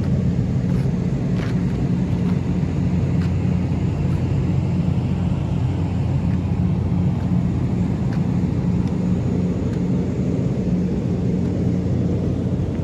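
Steady low mechanical rumble with a constant hum and a few faint ticks.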